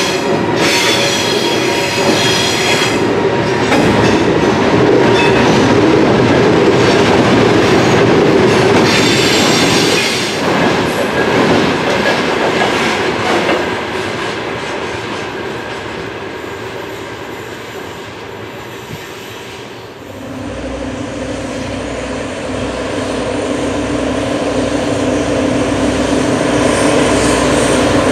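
Freight wagons behind a pair of Sr3 electric locomotives roll past on the rails, with high wheel squeal about a second in and again around nine seconds; the rolling noise then fades. From about twenty seconds a freight train hauled by three Dv12 diesel locomotives approaches, their diesel engines running with a steady low throb that grows louder.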